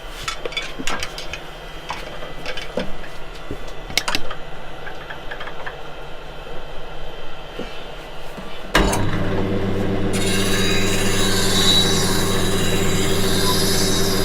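A few clicks and knocks of handling, then about nine seconds in a bench grinder switches on with a steady motor hum. About a second later the steel of a woodturning gouge meets the spinning wheel, adding a continuous high grinding hiss as the edge is sharpened.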